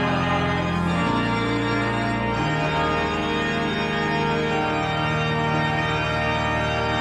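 Church organ playing slow, sustained chords. The chord changes about a second in, then a long final chord is held.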